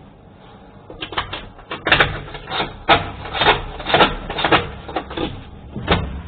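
A run of irregular clattering knocks, starting about a second in and coming two or three a second.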